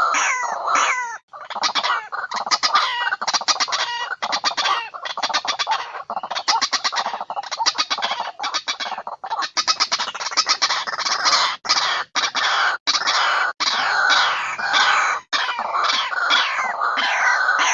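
White-breasted waterhen (ruwak-ruwak) calling: a dense, loud run of rapid repeated harsh notes broken by brief gaps, with falling notes near the start and again near the end. It is a recorded lure call of the kind used to draw the birds in for trapping.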